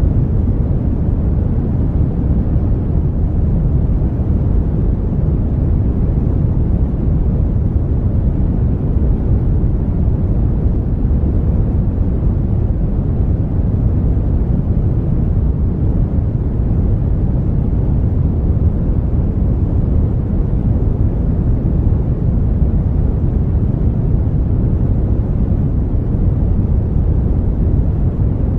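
Brown noise: a steady, even rumble of noise, strongest in the low end and falling away toward the highs, with no change in level.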